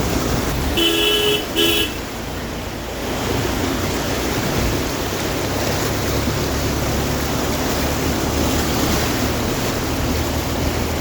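A vehicle horn sounds twice in quick succession about a second in, over the steady noise of rushing floodwater. A low engine hum runs under the water noise from about halfway through.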